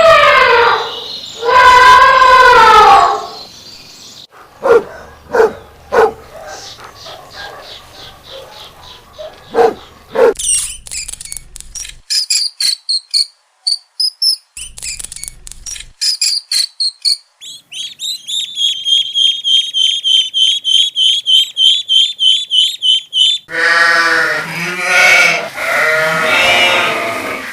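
A sequence of different animal calls. First drawn-out pitched calls, then scattered short clicks and grunts, then high, rapid chirping and trilling for several seconds, and another pitched call near the end.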